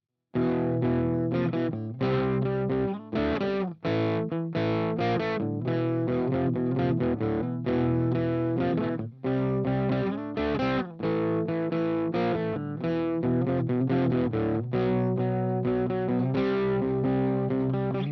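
Harley Benton Telecaster-style kit electric guitar played through distortion: rock/metal chords and riffs with a few short breaks between phrases, starting after a brief silence.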